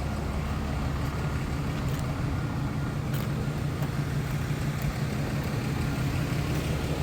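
A steady low engine hum that holds constant, with no revving.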